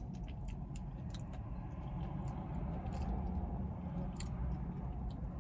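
Close-up chewing of a spoonful of KFC Famous Bowl, with scattered small wet mouth clicks, over a steady low rumble inside a car.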